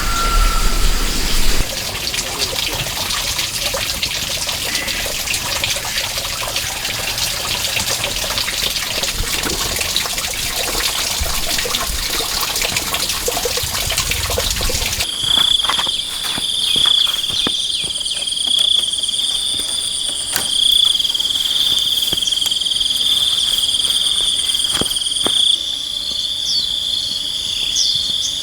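A loud, even rushing noise for about the first half, then an abrupt change to a steady, high-pitched insect drone that holds to the end.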